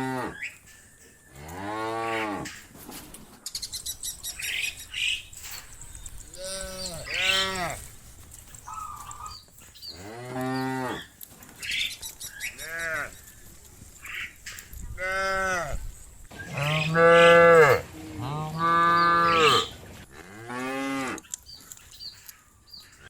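Cattle mooing: a string of about ten moos, one every second or two, each rising then falling in pitch. The two longest and loudest come about two-thirds of the way through.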